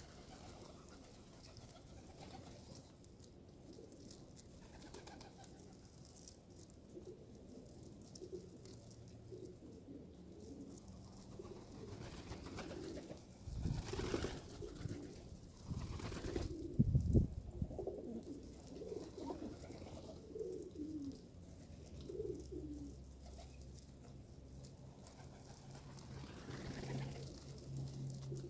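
Pigeons cooing over and over in low, short calls. A few louder rustling knocks come about halfway through.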